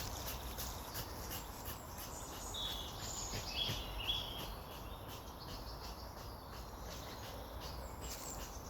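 Woodland birds singing: a few short, high chirps a few seconds in over a steady outdoor background hiss.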